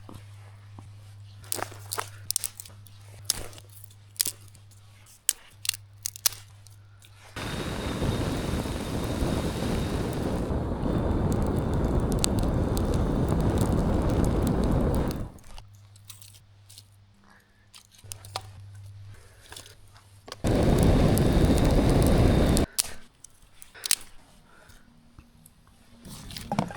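Campfire coals crackling and popping in sharp, irregular snaps, interrupted twice by loud rushing noise, once for about eight seconds and later for about two.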